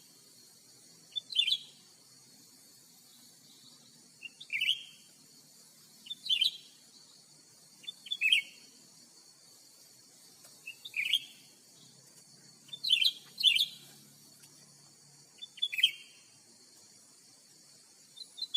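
Cucak ranting calling: about nine short, sharp chirps spaced every one to three seconds, some in quick pairs, over a steady high hiss.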